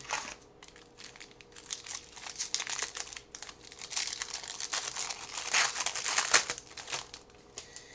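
Trading card pack wrapper being torn open and crinkled by hand, a dense run of crackles that is loudest a little past the middle.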